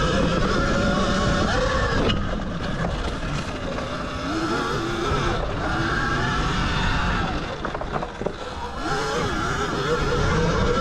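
Zero XB electric dirt bike being ridden, its motor whine rising and falling in pitch with the throttle over a steady rush of wind and tyre noise, easing off briefly a couple of seconds before the end.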